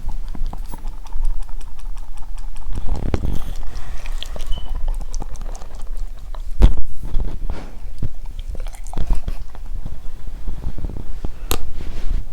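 A dog's mouth sounds close to the microphone: chewing and lip-smacking, a busy run of clicks and smacks over a low rumble.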